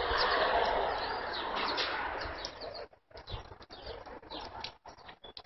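Birds chirping, many short high calls overlapping, over a steady hiss for the first few seconds. In the second half the sound cuts out briefly several times between bursts of chirps.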